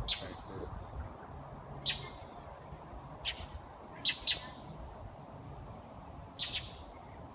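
Birds giving short, harsh scolding calls, single or in quick pairs, every second or two: alarm calls of birds mobbing a cat.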